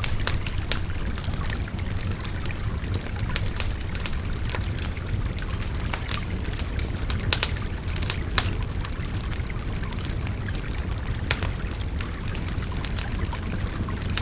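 Wood bonfire crackling with frequent irregular sharp pops, a few louder ones just past the middle, over the steady rush of a babbling river.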